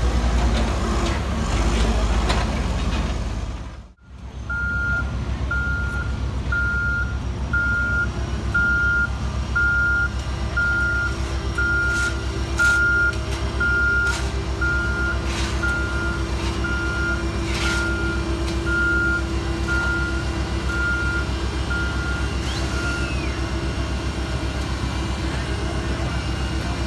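Heavy diesel construction machinery running with a steady low rumble; after a brief drop-out about four seconds in, a back-up alarm beeps at one pitch about once a second and stops a few seconds before the end.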